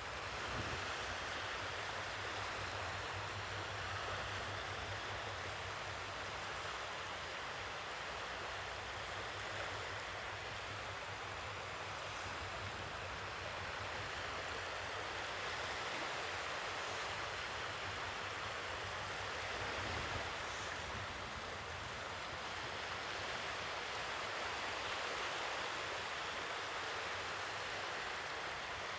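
Sea waves washing on a shore: a steady rush of surf that swells and eases slowly, with a low rumble underneath.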